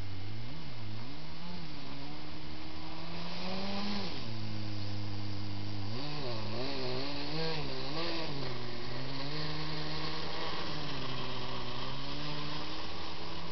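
Kyosho Blizzard RC snowcat's electric motor and gear drive whining, the pitch rising and falling as the throttle is worked. It wobbles quickly up and down in the middle, then holds steadier near the end.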